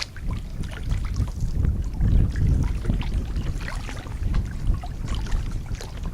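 Kayak paddling: water dripping and splashing in small irregular ticks from the paddle blades, over a low rumble of wind on the microphone.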